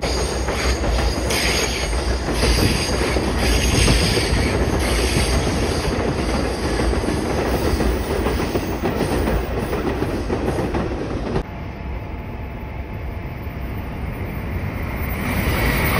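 A conventional electric commuter train running past on the tracks below, its wheels rumbling and rattling over the rails. The noise drops off suddenly about eleven seconds in, then swells again near the end as a Shinkansen bullet train comes into the station.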